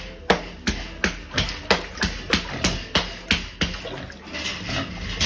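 Pig eating wet feed, with a sharp, wet smacking chomp about three times a second that grows fainter near the end.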